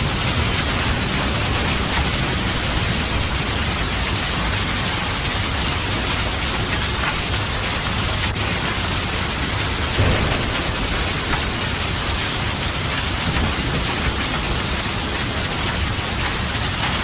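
Steady heavy rain hissing, with low thunder rumbling underneath and a short low thump of thunder about ten seconds in.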